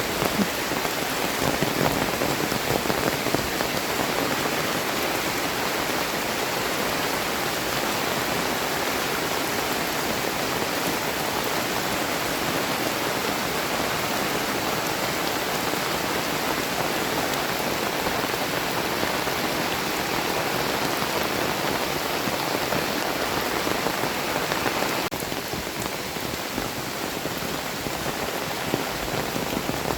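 Heavy tropical rain falling steadily, a dense even hiss of rain on surfaces; it drops a little in level about 25 seconds in.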